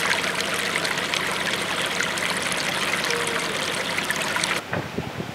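A small stream running, a steady splashing trickle, that cuts off abruptly about four and a half seconds in.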